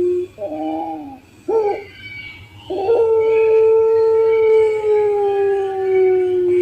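Puter pelung (Barbary dove) cooing: two short falling coos, then one long drawn-out coo of about four seconds that slowly sinks in pitch, the prized long note of a contest dove. Fainter, higher chirps from other birds run beneath it.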